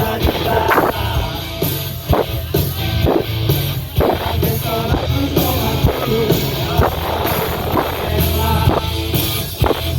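Rock band playing live: drum kit hitting a steady beat over bass and guitar, with a voice singing.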